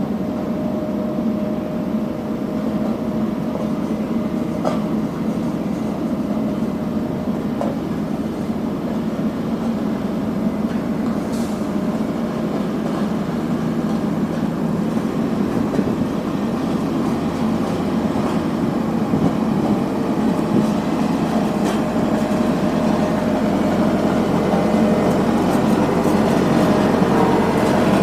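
Heavy diesel engine of road-paving machinery running steadily with a deep drone, growing gradually louder toward the end as it comes closer.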